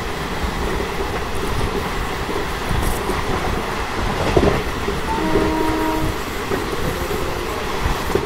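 Running noise of a moving passenger train: a steady rush of wheels on rail and passing air. About five seconds in, a train horn sounds for about a second.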